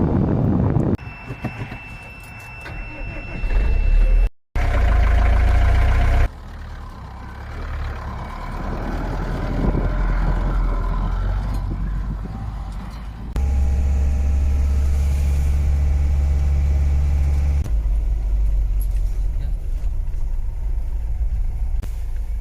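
Motor vehicle engine and road rumble, heard in a string of short clips that change abruptly in loudness.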